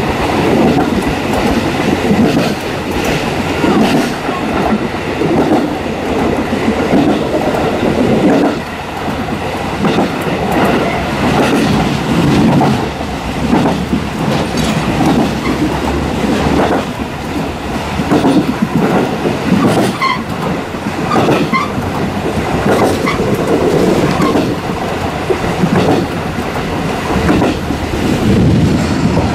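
Passenger coach of a diesel-hauled train running over jointed, non-welded single track, heard from the rear observation deck. The wheels knock out a continuous clickety-clack over the rail joints on top of steady rolling noise.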